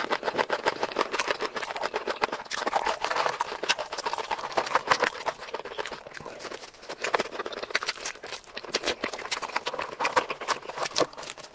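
Close-miked eating sounds: chewing with wet lip smacks and mouth clicks in a rapid, irregular stream.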